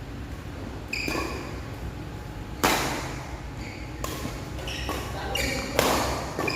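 Badminton rally: rackets hitting the shuttlecock again and again, with two hard hits, about three seconds apart, standing out. Short high squeaks come in between, typical of court shoes on the floor.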